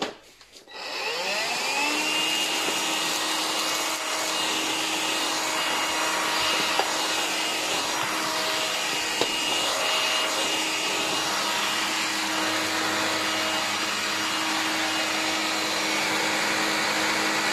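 Cordless vacuum cleaner motor, now powered by a converted lithium-ion battery pack, switched on about a second in. Its whine rises as it spins up, then it runs steadily. A couple of small ticks come partway through.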